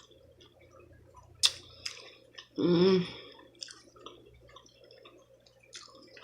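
Close-up wet chewing and small mouth clicks of someone eating a soy-dipped sushi roll. A brief hummed "mm" from the eater comes about halfway through and is the loudest sound.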